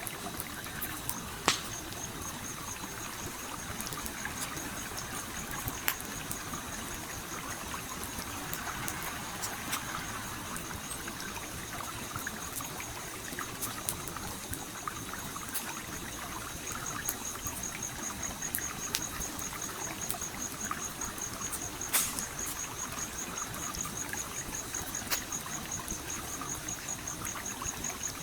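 A stream flowing steadily, with campfire wood crackling in occasional sharp pops. A steady high, rapidly pulsing trill runs from about a second in.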